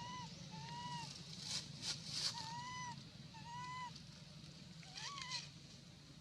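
Baby monkey giving five short, high calls, each rising and falling in pitch, with some rustling noises between them.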